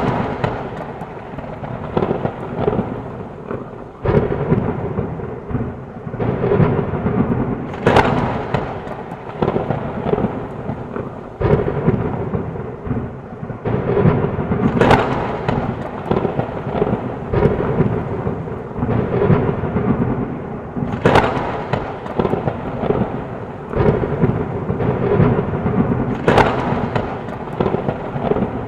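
Thunderstorm: steady rain with thunder rumbling throughout and sharp cracks of thunder breaking through every several seconds, the strongest about 8, 15, 21 and 26 seconds in.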